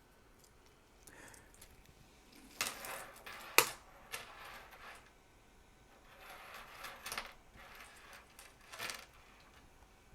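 Handling noise: scattered light clicks and short rattles of small hard plastic parts, with one sharp click about three and a half seconds in.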